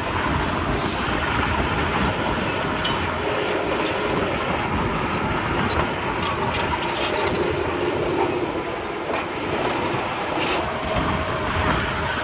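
Diesel heavy earthmoving machinery running steadily, with scattered short clanks and rattles throughout.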